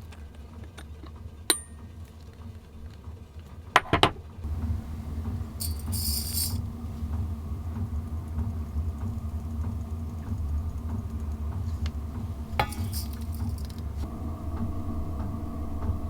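Coffee-making gear handled: a sharp click, then a loud double clank near the start, over a steady low hum, with two short hisses later. Faint steady tones join near the end.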